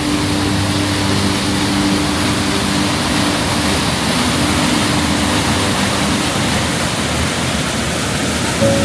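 Rushing water from a waterfall or mountain stream: a steady, loud, unbroken hiss, with soft held music notes underneath.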